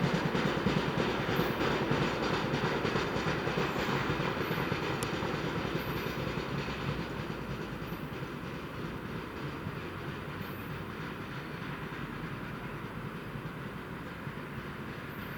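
Freight train wagons rolling along the track, the wheels clattering over the rail joints, growing steadily fainter as the train moves away.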